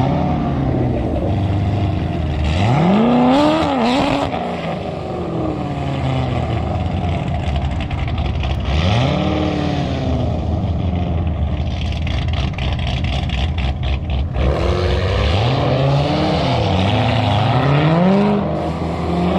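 Performance car engines idling, with revs that rise and fall three times: about three seconds in, near nine seconds, and a series of quick blips in the last few seconds.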